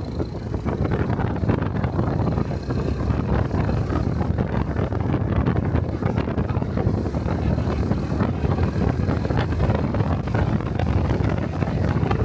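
Honda 125 cc single-cylinder Cub motorcycle engine and exhaust rising in level in the first second as the bike gets under way, then running steadily while riding, with wind buffeting the microphone.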